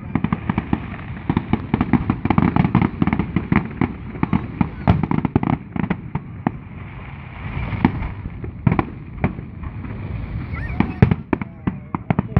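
Fireworks display: rapid volleys of bangs and crackles for about the first six seconds, thinning after that to scattered single bangs.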